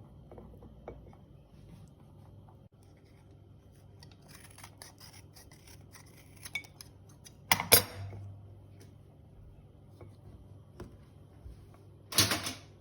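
Kitchen handling sounds: dishes and utensils clicking and knocking, with light rustling, two sharp knocks about seven and a half seconds in, and a louder brief rush of noise near the end.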